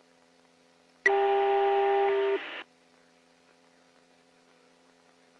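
A burst on the police radio channel: about a second and a half of several steady tones over hiss. It starts about a second in, drops in level, then cuts off abruptly. Otherwise a faint steady hum remains.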